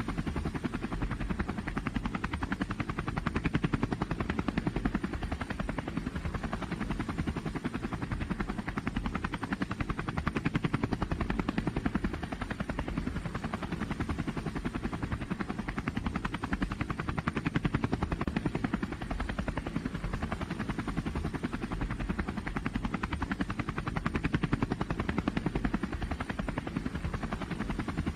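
Large engine running steadily with a fast, even pulse, its loudness swelling and easing every six or seven seconds.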